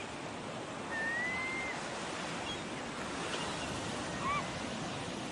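Steady wash of sea and wind noise. A thin high whistle rises and then holds for under a second, about a second in, and a few short faint chirps follow later.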